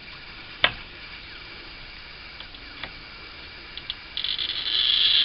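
A sharp tap about half a second in and a few light ticks, then about four seconds in a loud, continuous high scratchy hiss starts: a glass cutter scoring a sheet of glass freehand.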